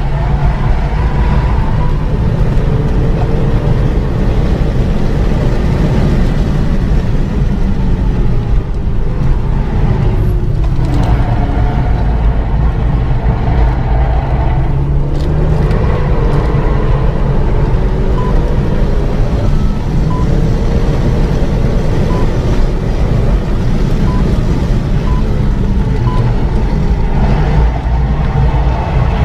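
Renault Mégane 3 RS Trophy's turbocharged 2.0-litre four-cylinder engine driven hard on track, heard from inside the cabin over heavy road noise, its revs rising and falling through gear changes and braking. In the second half a series of short high beeps sounds about once a second.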